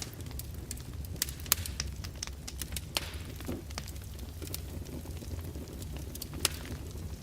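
Wood fire crackling in a fireplace: irregular sharp pops and snaps over a steady low rumble, with louder pops about a second and a half in and near the end.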